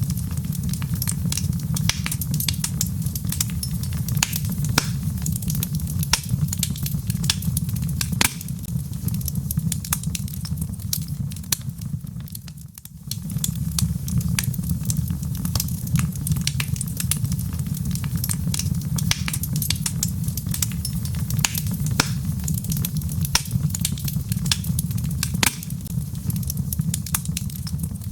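Logs burning in a fireplace, crackling with many sharp pops over a steady low rumble. The fire sound drops away for a moment about halfway through, then carries on.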